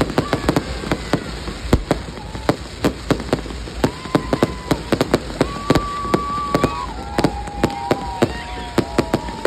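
Fireworks going off in a rapid string of sharp cracks and bangs, several a second. From about four seconds in, steady whistling tones sound over them.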